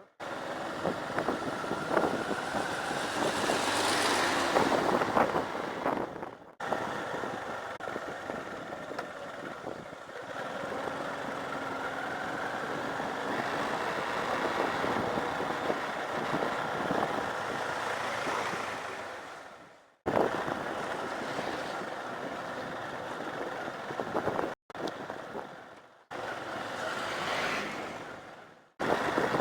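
Vehicles on a dirt road: steady engine and road noise with wind on the microphone, several vehicles passing close by and fading. The sound breaks off sharply several times where the clips are cut.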